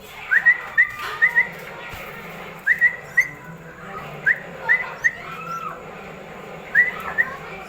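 A person whistling short, quick upward-sliding notes in clusters of two or three, about every two seconds: the feeding whistle that cues five-day-old crested myna chicks to open their beaks.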